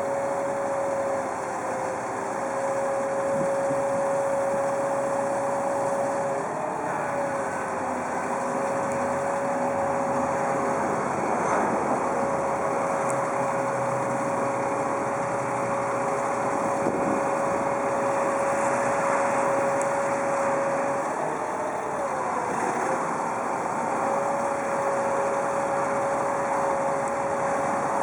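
2002 Freightliner FL70 bucket truck's engine running steadily, with a steady whine over it that briefly dips in pitch twice, about seven seconds in and again about twenty-two seconds in.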